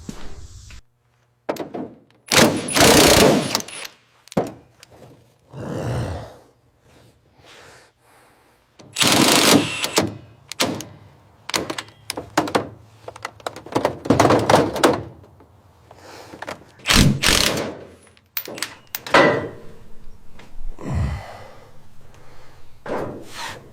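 Irregular knocks, thuds and scraping bursts from hand work on a car's body, some bursts lasting about a second, with abrupt cuts between them.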